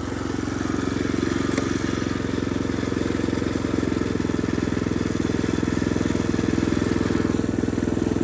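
Predator 212 single-cylinder engine on a mini bike idling steadily.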